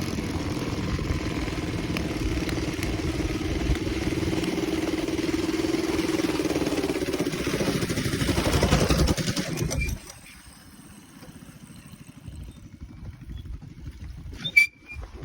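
Motovox gas mini bike engine running hard at a steady high speed, then dropping abruptly about ten seconds in to a much quieter, low, even running. A single sharp click comes near the end.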